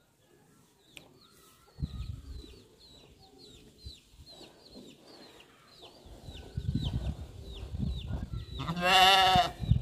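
A small bird chirping over and over, short falling chirps about two a second. Low rustling builds from about two-thirds of the way in. Near the end comes a loud, quavering farm-animal call lasting under a second.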